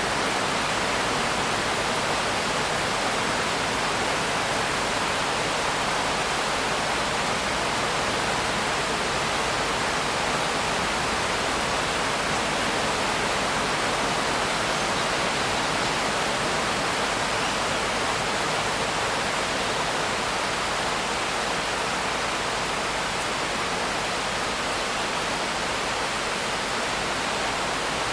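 Steady rain, an even hiss with no separate drops standing out.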